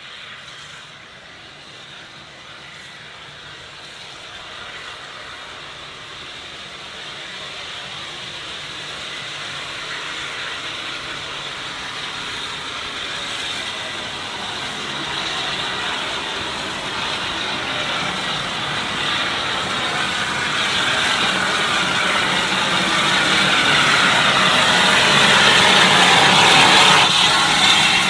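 A train approaching along the line, its running noise growing steadily louder throughout.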